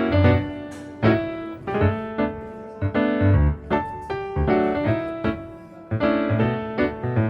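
Background music: a piano playing a gentle piece, notes struck about every half second over low bass notes.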